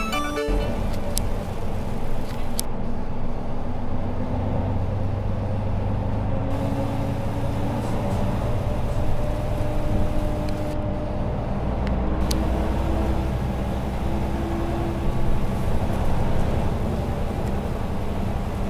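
Engine and road noise heard from inside a moving bus: a steady low rumble, with the engine's hum drifting slightly up and down in pitch.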